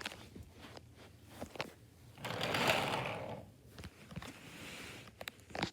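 Battery toy train's small electric motor whirring as it runs along the track, loudest for about a second partway through, then running more quietly, with a few sharp clicks of plastic pieces.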